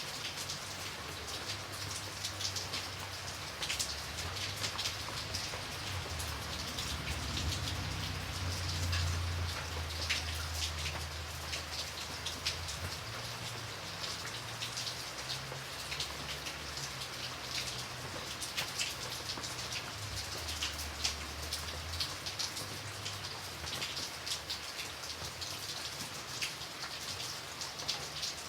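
Steady rain, with many single drops ticking sharply on a hard surface over a continuous hiss. A low rumble underneath swells in the middle.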